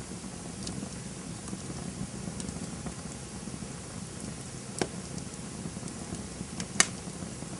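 Campfire burning: a steady low rush of flames with scattered faint crackles, and two sharp pops from the burning wood, about five and seven seconds in.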